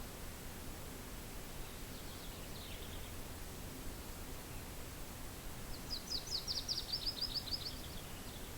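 A small songbird singing over a steady soft wind hiss: a faint short high phrase about two seconds in, then a louder fast trill of short high notes about six seconds in, lasting about two seconds.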